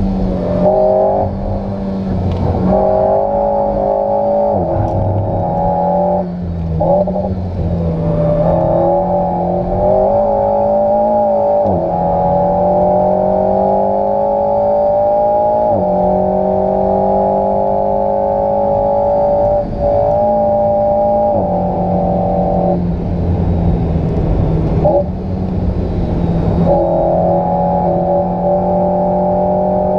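Alpine A110's 1.8-litre turbocharged four-cylinder engine, heard from inside the cabin, pulling hard at high revs on a fast lap. Its pitch climbs steadily under acceleration and drops sharply several times at upshifts and lifts, as the car works up through third, fourth and fifth gear.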